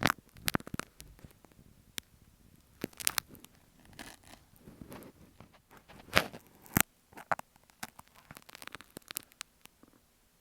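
Marking pins scratching and tapping on an earphone microphone, in irregular crackly strokes with a few sharp, louder clicks.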